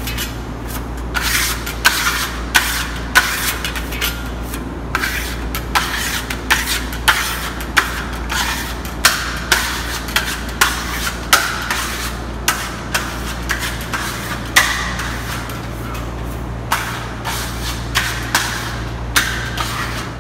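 Steel trowel and spatula scraping over a wall of burnt-cement effect plaster, in short, rapid strokes of roughly two a second, laid on tightly to smooth and burnish the coat. A steady low hum runs underneath.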